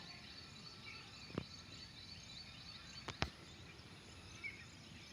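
Faint outdoor background with insects and birds chirping. A few sharp clicks stand out: one about a second and a half in, and two close together about three seconds in.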